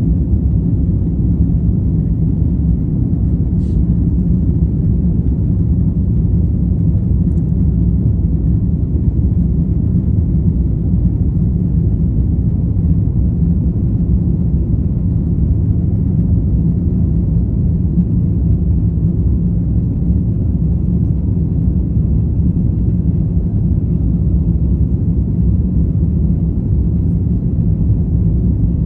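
Steady low rumble of an Airbus A350-1000's Rolls-Royce Trent XWB engines and airflow, heard from inside the cabin, holding at the same level without rising or falling.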